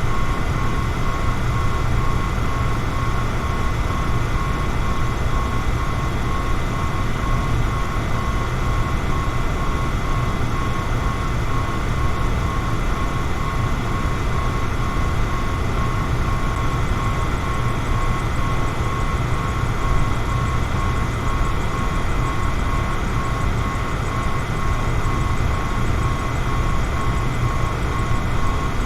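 Electric fan running steadily: an even low rumbling whoosh of moving air with a faint steady motor whine on top.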